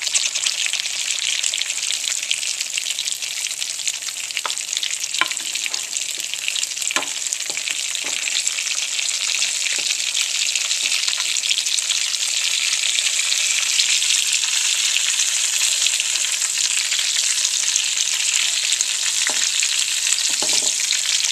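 Whole Anaheim peppers frying in olive oil in a small pan: a steady sizzle with a few light clicks and pops.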